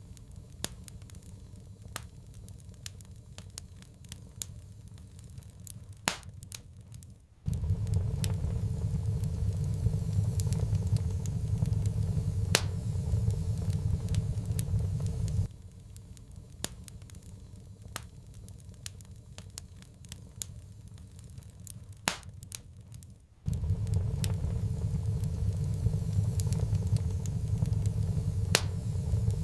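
Wood fire crackling, with frequent sharp pops and snaps. A low rumble comes and goes abruptly, cutting in about seven seconds in, dropping out about halfway, and returning near the end.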